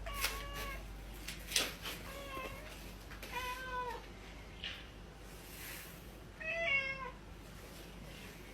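A cat meowing four times in short calls, with a few sharp clicks or knocks between the meows.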